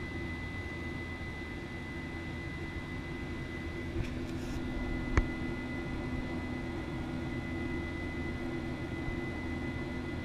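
Steady jet-engine noise of a Boeing 737-900 airliner, with a steady high whine running through it. A single sharp click about five seconds in is the loudest moment.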